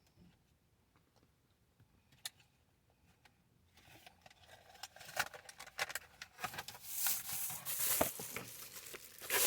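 Rain pattering on a car, starting faintly about four seconds in and growing steadily heavier, with scattered small clicks.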